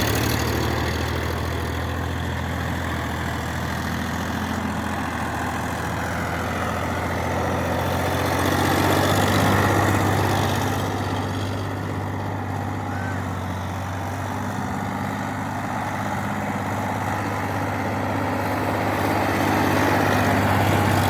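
Sonalika 745 tractor's diesel engine running steadily with a low drone, swelling a little louder about nine seconds in and again near the end.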